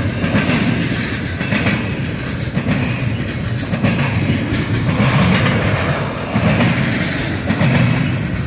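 Double-stack intermodal freight train of container well cars rolling past at close range: a loud, steady rumble and clatter of the wheels and cars on the rails.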